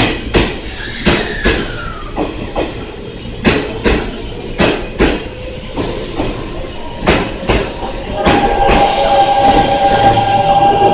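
Electric train pulling out and rolling past, its wheels clacking irregularly over rail joints and points. A falling whine sounds near the start, and from about eight seconds a steady high tone with hiss joins in.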